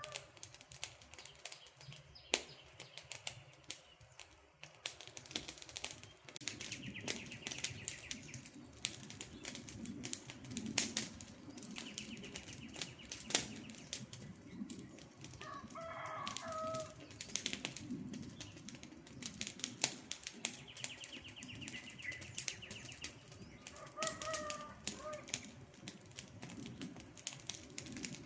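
Wood campfire crackling, with many sharp pops and snaps, under a light hiss. A bird calls twice, once midway and once near the end, and a high, fast trill comes and goes several times.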